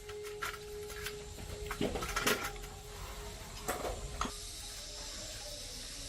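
Metal parts clinking and knocking several times as they are handled, then a steady hiss starts about four seconds in.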